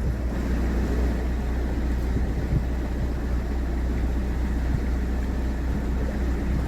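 Narrowboat engine running steadily with a low hum.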